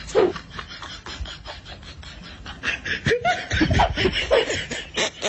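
A person laughing in short bursts, mostly in the second half, over a run of sharp clicks and knocks.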